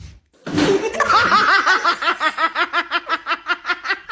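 Laughter: a long run of short rising-and-falling 'ha' sounds, about five a second, starting about half a second in.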